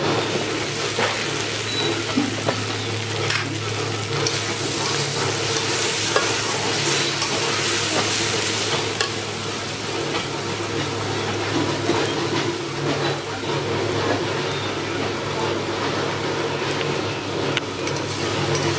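Sliced onions and green chillies sizzling in hot oil in a steel karahi, with a metal spatula scraping and clicking against the pan as they are stirred, over and over.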